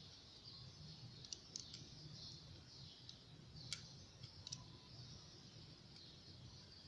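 Faint, scattered small clicks, about half a dozen spread irregularly, from handling a door's mortise lock and its screws with tools, over a faint steady hiss.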